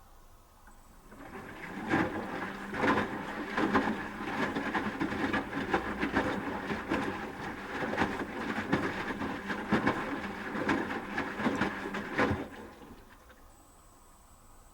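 Asko Quattro W6098X washing machine drum turning during the heating stage: a motor hum under the irregular knocks and thuds of the wet laundry tumbling. It starts about a second in and stops about two seconds before the end, a pause between turns.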